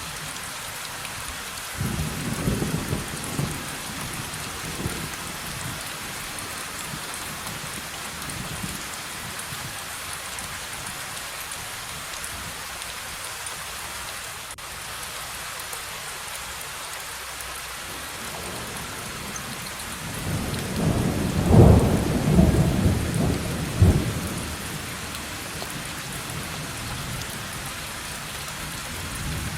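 Steady rain of a thunderstorm with two rolls of thunder: a short rumble that starts suddenly about two seconds in, and a louder, longer one about twenty seconds in.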